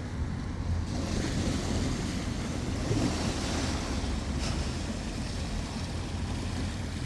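Wind rumbling on the microphone over a steady rush of water, with a hissing wash that swells about a second in and fades a few seconds later.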